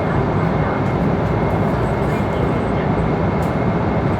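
Airliner cabin noise at cruising altitude: the steady deep rush of the jet engines and airflow over the fuselage, with a faint steady high tone running through it.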